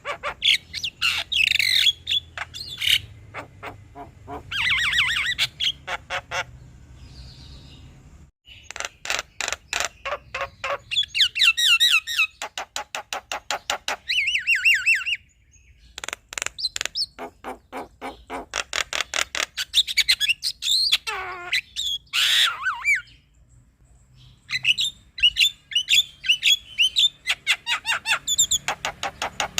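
Male Javan myna singing in phrases: bursts of fast, dry clicking rattles alternating with runs of sharp, high whistled notes, one long falling call about two-thirds through, and short pauses between phrases.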